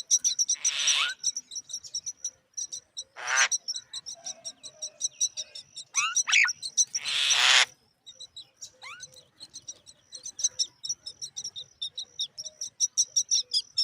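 Myna birds calling during feeding: a dense run of short high chirps, several a second, broken by three loud harsh rasping calls (the longest about seven seconds in) and a few short rising whistles.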